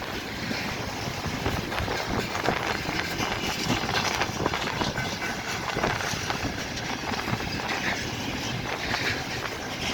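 Train running past, a steady rumble of wheels on the rails with irregular knocks.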